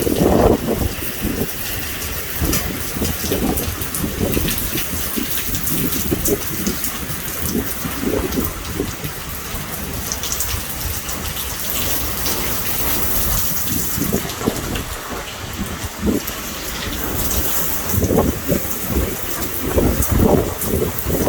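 Heavy rain pouring down in a severe thunderstorm, a dense steady hiss with fine patter. Low, uneven rumbles break through, strongest at the start and again near the end.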